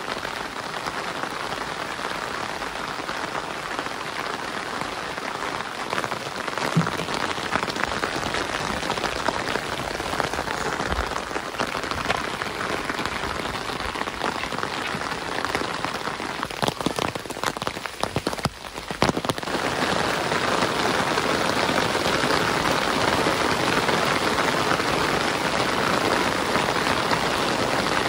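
Steady rain falling, with a cluster of sharp taps about two-thirds of the way through; the rain is louder after that.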